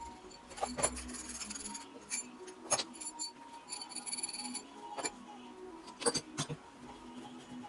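Steel tools and gearbox parts clinking and knocking: several sharp metallic knocks, some with a brief high ring, as a bearing puller is worked on the gearbox mainshaft.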